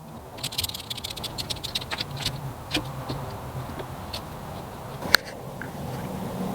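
A fast run of small mechanical clicks lasting about two seconds, like a ratchet being worked, then scattered single clicks and one sharp click about five seconds in, over a low steady hum.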